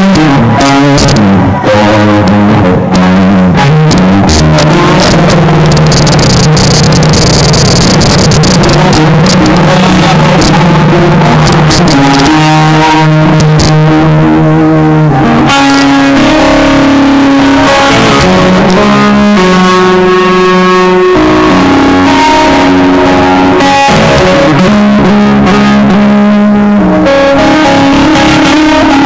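Live amplified electric guitar solo, loud: a long held low note in the first half, then shorter, higher melodic phrases.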